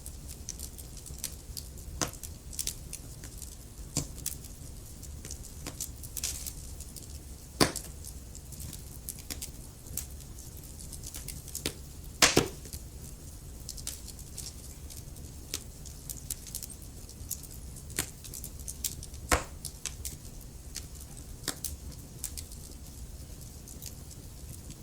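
Wood fire crackling, with irregular sharp pops and snaps over a low steady rumble; the loudest pops come a little past the middle of the stretch.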